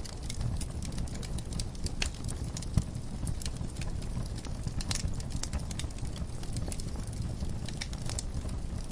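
Wood fire crackling in a fireplace: irregular sharp pops and snaps over a steady low rush of flame, with one louder pop about three seconds in.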